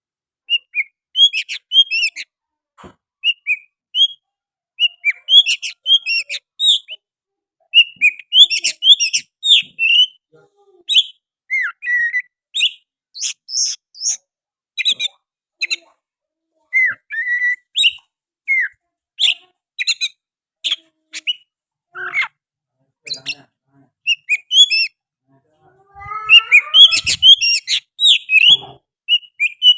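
Oriental magpie-robin singing hard and nonstop: a rapid run of loud, sharp whistled notes and chirps with quick rising and falling sweeps, getting denser near the end. The song is filled with mimicked sooty-headed bulbul phrases.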